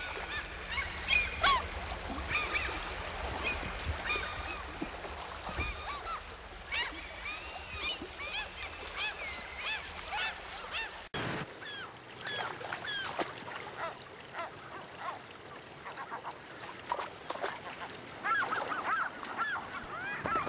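Many birds calling at once, short overlapping calls from a flock, with a low rumble underneath that stops at an abrupt break about eleven seconds in.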